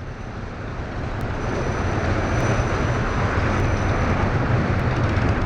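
Wind rush and road traffic noise heard from a moving bicycle: a steady low rumble with a noisy hiss that grows louder over the first couple of seconds and then holds.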